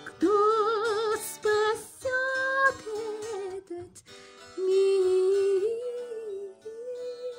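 Wordless female vocalise or humming, a melody held with vibrato over a soft sustained accompaniment, in two louder phrases with a dip around the middle.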